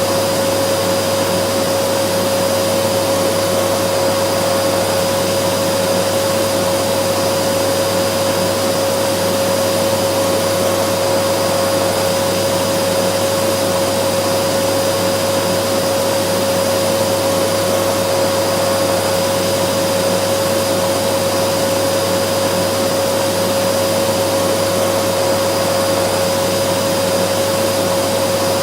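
Vacuum cleaner motor running steadily, a constant rushing of air with a steady whine and a low hum that never change.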